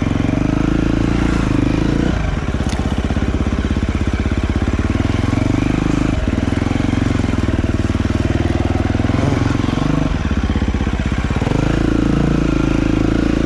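Dirt bike engine running on the trail, the revs rising and then dropping off briefly about every four seconds as the throttle is worked.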